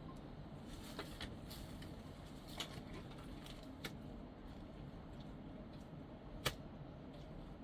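A handful of short, sharp knocks and clicks at irregular intervals over a low steady background noise, the loudest about six and a half seconds in.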